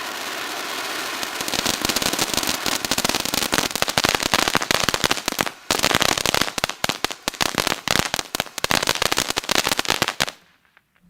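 Fountain firework spraying with a steady hiss that turns into dense, rapid crackling about a second and a half in, with one brief break in the middle. It cuts off suddenly near the end as the fountain burns out.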